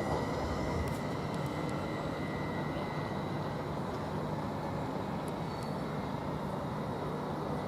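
Greater Anglia Class 755 train pulling out of the station, a steady mechanical drone with a low hum and a faint high whine.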